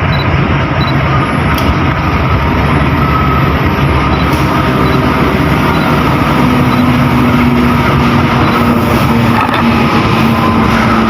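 Diesel locomotive engine running loudly with a steady low drone as a train moves through the station; a higher steady tone joins about six seconds in.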